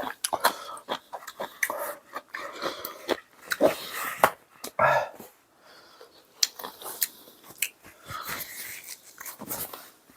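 A dog whimpering in short bursts, mixed with eating noises: chewing and sharp clicks of utensils against a bowl.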